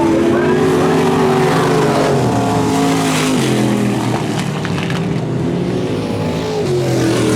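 Monster truck engine revving under throttle. Its pitch drops about halfway through and climbs again near the end.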